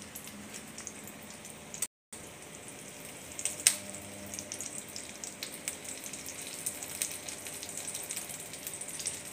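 Potato omelette sizzling in a nonstick frying pan, with fine crackles and a few light taps of a silicone spatula against the pan. The sound cuts out briefly about two seconds in.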